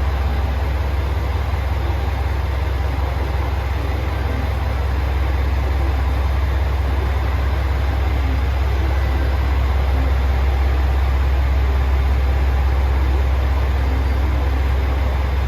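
Steady, loud low rumble with a constant hiss, the running noise of a train, unchanging throughout.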